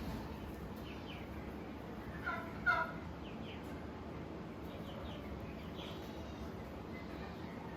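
Two short, pitched animal calls close together about two and a half seconds in, over faint, scattered chirping.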